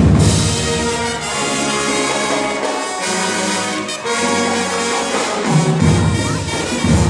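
A high school band playing: brass, trumpets and trombones, holding sustained chords. The heavy low bass and drums drop out after about a second and come back in near the end.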